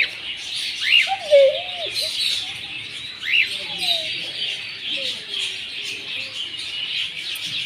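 A mixed group of small birds chirping and chattering together without pause, with a few sharp upward-swooping calls and some lower, curving whistled notes.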